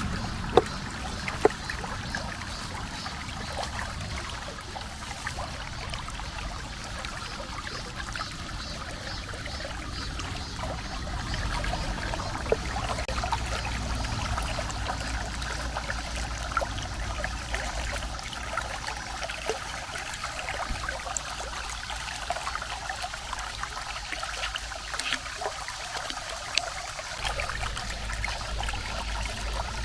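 Shallow creek water trickling and babbling steadily over stones, with a dense patter of small splashes. Two sharp clicks stand out in the first couple of seconds.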